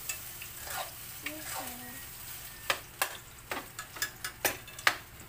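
Hotdogs frying in a pan, sizzling steadily, with sharp pops and clicks that come thicker in the second half.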